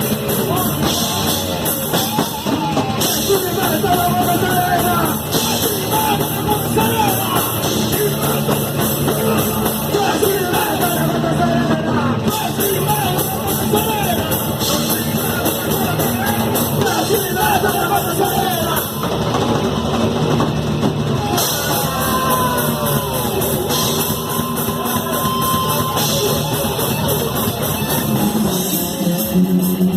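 Rock band music: a drum kit pounding under heavy electric guitars, with a voice over it, continuous and loud.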